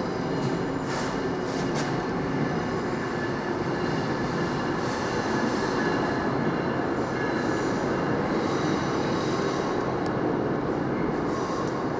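A train running by with a steady rumble.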